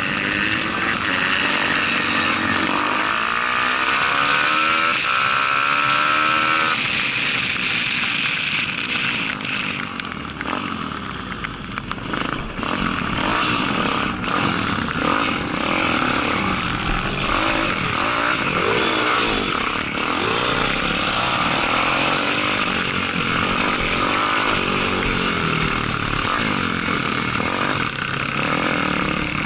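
Pit bike's Daytona 190 single-cylinder four-stroke engine racing, its pitch repeatedly rising under acceleration and falling as the rider shifts and slows. It eases off briefly about ten seconds in, under a steady rush of wind on the bike-mounted microphone.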